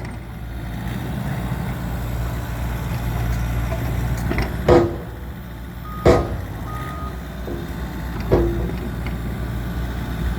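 Diesel engine of a 15-ton dump truck running steadily, with three sharp knocks, the first a little before the middle and the last near the end, and two short beeps just after the middle.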